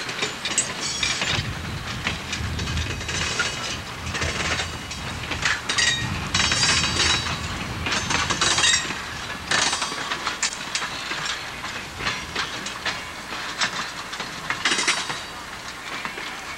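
Railroad cars rolling past: passenger car, open flat cars and a caboose, their steel wheels clattering and clicking over the rail joints, with a few brief high squeals. The sound eases off near the end as the caboose passes.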